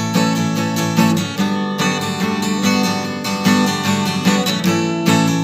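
Acoustic guitar strumming chords in a steady rhythm: the instrumental intro of a song, with no singing yet.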